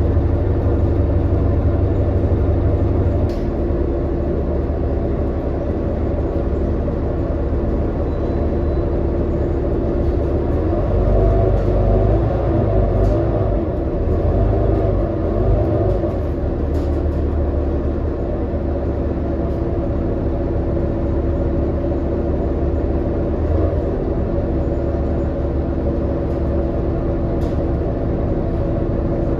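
Cabin noise of a 2018 New Flyer XD40 diesel transit bus running: a steady low engine and drivetrain rumble with droning tones, which waver and rise and fall between about eleven and sixteen seconds in. There are a few light clicks.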